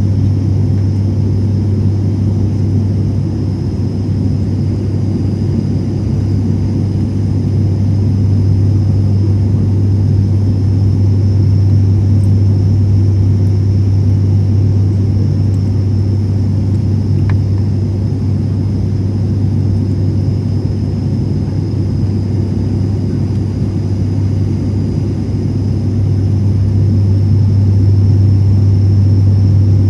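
ATR 72 turboprop cabin drone: a loud, steady low hum from the propellers with rumble underneath and a faint high whine above, holding level throughout.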